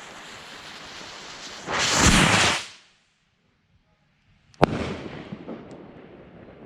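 Pyro Diablo firework rocket: a loud rushing whoosh lasting about a second, then, after a brief dead silence, a single sharp bang (the rocket's report) that echoes away with a few faint crackles.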